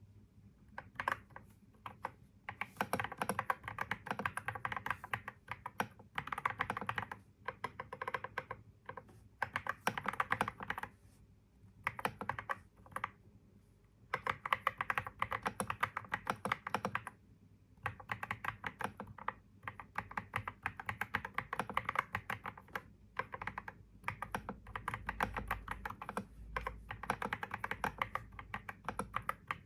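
Typing on a computer keyboard: runs of rapid keystrokes broken by short pauses every few seconds.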